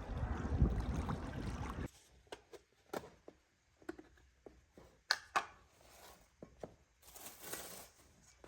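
A steady rushing noise that stops abruptly about two seconds in, followed by scattered light clicks and knocks of household handling and a brief soft hiss near the end.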